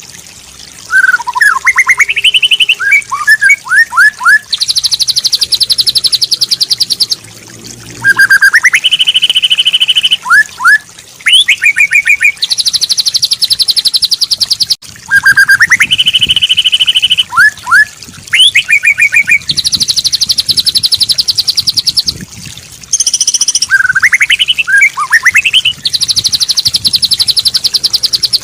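Looped bird-song tutor recording for training white-rumped shamas. Short rising whistled phrases alternate with long, rapid, high trills, and the same sequence repeats about every seven to eight seconds.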